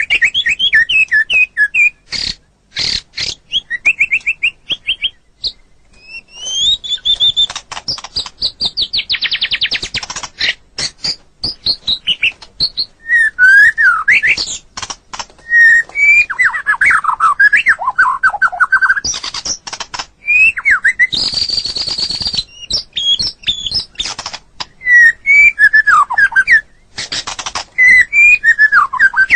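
White-rumped shama singing a long, varied song: clear whistles that glide up and down, rapid trills and sharp clicking notes, with one harsh rasping note about two-thirds of the way through.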